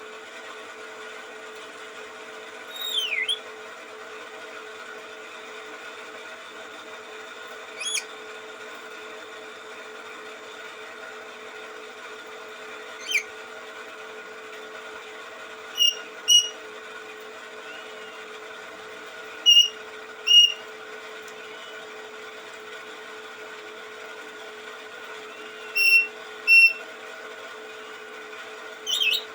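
A songbird giving short, sharp chirping calls every few seconds, several in quick pairs and some sweeping down in pitch, over a steady background hum.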